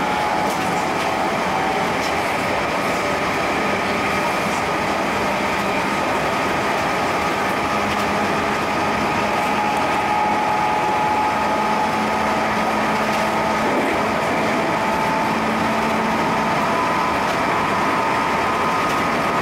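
JR Central 211 series 5000 electric train running at speed through a tunnel, heard from the driver's cab: a steady rumble of wheels on rail and running gear, closed in by the tunnel walls, with a faint steady motor hum. The level stays even throughout.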